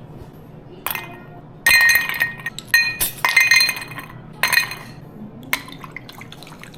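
Dishes clinking: a run of sharp knocks of glass or ceramic tableware with short ringing tones, the busiest stretch in the middle, then a couple of single clinks.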